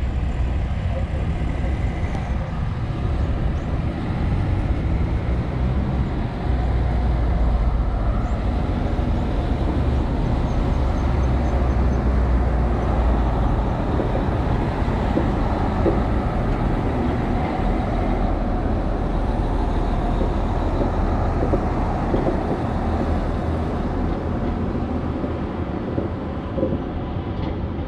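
Irish Rail 22000 class diesel multiple unit passing with a steady low diesel drone and rumble. It grows louder as the train comes alongside, holds about halfway through, and fades near the end as the train moves away.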